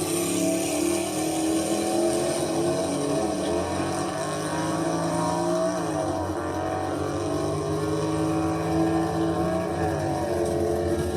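A car engine running steadily, its pitch dipping and rising slightly a couple of times as the revs change.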